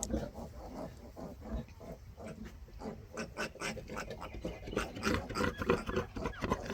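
Pigs grunting in a quick string of short grunts, louder and more frequent in the last couple of seconds.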